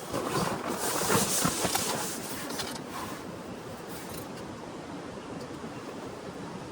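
Steady hiss of heavy rain, with a burst of close rustling and crackling in the first two seconds before it settles back to even rain.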